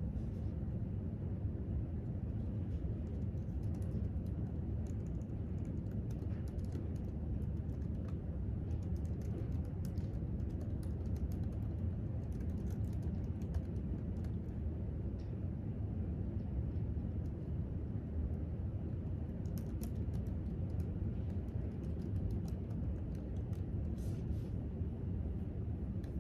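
Typing on a laptop keyboard: scattered light key clicks, irregular throughout, over a steady low background hum.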